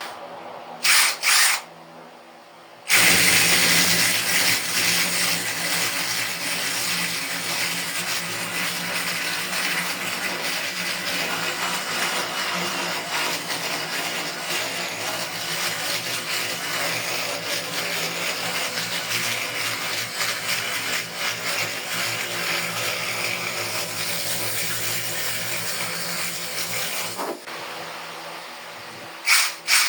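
Cordless drill driving a mini chainsaw attachment, running hard and steadily for about 24 seconds before stopping abruptly, the chain cutting through wood. Two brief loud bursts come about a second in, and one more just before the end.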